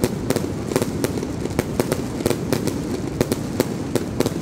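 Fireworks display going off: a rapid, irregular string of sharp bangs and crackles, about four or five a second, over a constant low din of more distant explosions.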